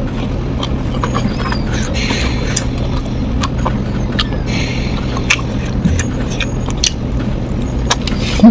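Close-miked eating: crisp fried food being bitten and chewed, with crunching, wet mouth clicks and smacks, over a steady low hum. A louder knock comes near the end.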